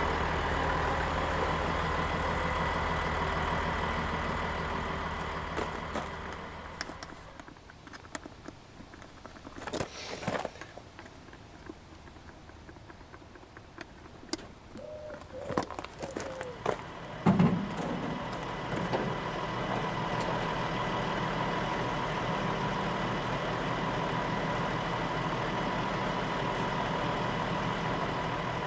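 A tractor's diesel engine running steadily, then dying away about seven seconds in. A quieter stretch with a few scattered clicks and knocks follows, then a sharp loud knock a little past halfway, and the engine runs steadily again.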